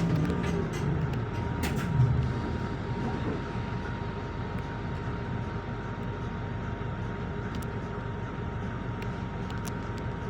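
Scania K230 bus running at a steady speed, with a constant rumble and a thin steady whine over it. There is one sharp thump about two seconds in.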